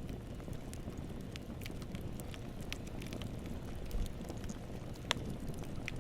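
Wood campfire burning: a steady low rush of flames with scattered sharp crackles and pops of burning wood, one louder pop about five seconds in.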